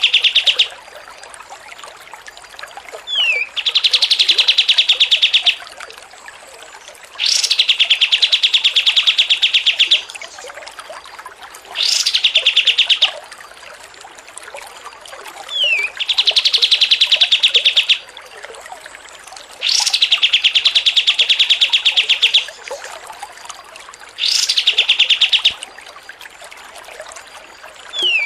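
A songbird repeating one phrase about every four seconds, seven times: a sharp rising whistle followed by a fast, even, rattling trill lasting one to three seconds, some phrases opened by a short falling note.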